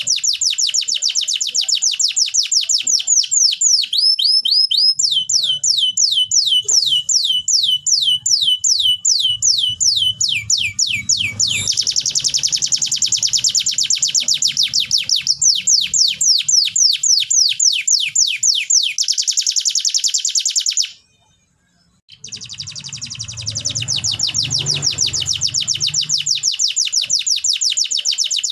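Domestic canary singing in long rapid trills of sweeping high notes, several a second, switching from one trill to the next. The song breaks off for about a second about two-thirds of the way through, then resumes.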